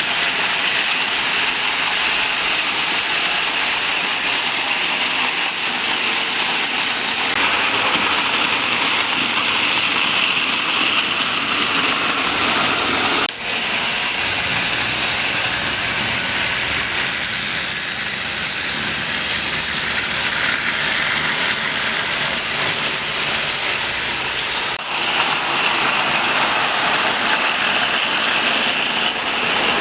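Lionel model train running, a loud steady rushing rumble and hiss. The sound changes abruptly twice, about 13 and 25 seconds in, each time with a brief dip.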